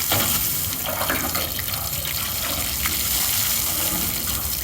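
Steady spray of water rinsing foamed aluminum brightener off an aluminum boat hull.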